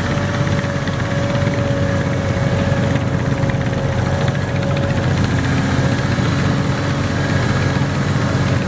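Garden tractor engine running steadily, a low drone with a thin steady whine over it.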